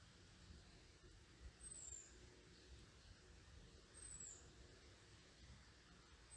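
A small bird giving a faint, high, thin down-slurred call twice, about two seconds apart, over a faint low rumble.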